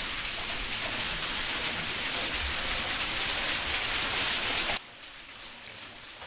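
Waterfall water pouring down right onto and around the microphone, a loud even splashing hiss that cuts off suddenly about five seconds in, leaving a quieter rush of falling water.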